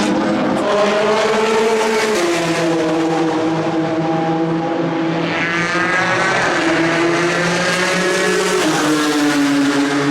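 Ford GT GTE race car's twin-turbo V6 accelerating hard through the gears: the engine note climbs and drops back at each upshift, several times over. A second engine note joins about halfway through.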